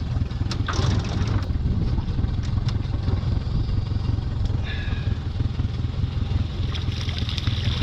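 Boat's outboard motor running steadily, with a constant low hum and water and wind noise.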